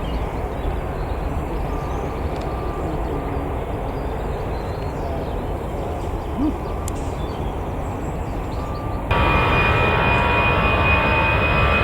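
Jet airliner engines rumbling steadily; about nine seconds in the sound jumps abruptly to a louder, closer jet with a steady high-pitched whine over the rumble.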